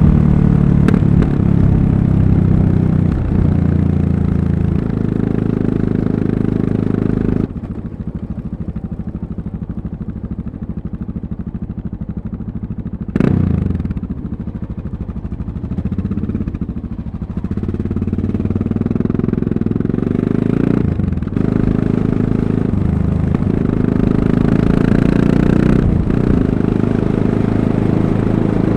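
Yamaha MT-03's 660 cc single-cylinder engine running while being ridden, heard from on board, its note stepping up and down with the gear changes. The engine drops to a quieter, lower note about seven seconds in, gives a short loud rev about halfway, and picks up again from a little after that.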